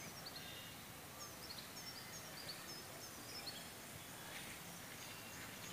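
Small birds chirping: a string of short, high, downward-sliding chirps over faint, steady outdoor background noise.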